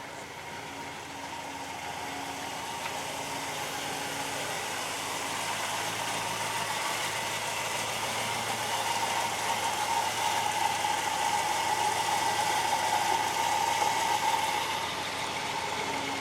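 A car engine running, growing steadily louder for about fourteen seconds and dropping off near the end.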